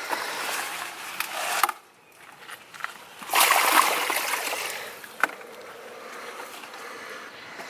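Water pouring and splashing as the garden is watered. It stops briefly about two seconds in, comes back strongest a little after three seconds, and there is a sharp click about five seconds in.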